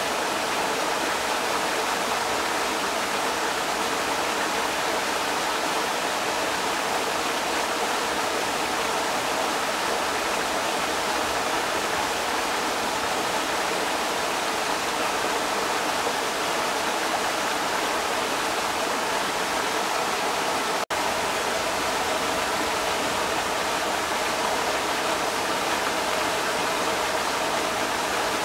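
Creek water rushing steadily, with a split-second dropout about two-thirds of the way through.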